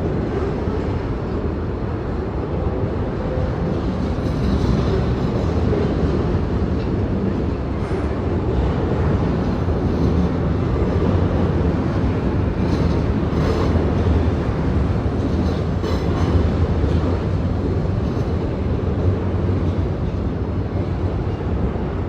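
Double-stack container freight train rolling past in a steady low rumble, with scattered clacks of wheels over the rail joints.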